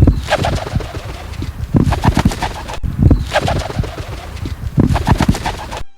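Kererū (New Zealand wood pigeon) wingbeats: a loud series of heavy whooshing wing strokes, the whoop-whoop sound of the big pigeon flying low overhead.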